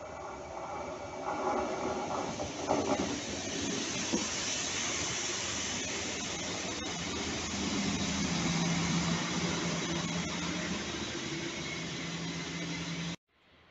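Regional diesel multiple unit running past close along the platform: a whine from the approaching unit gives way to a loud rushing hiss of wheels and air as it goes by, with a steady low engine drone under it. The sound cuts off suddenly near the end.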